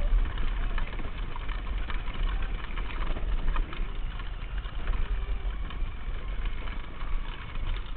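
Quad bike engine running, heard from a helmet camera, with a heavy low rumble and many small knocks and rattles; it drops away suddenly at the end.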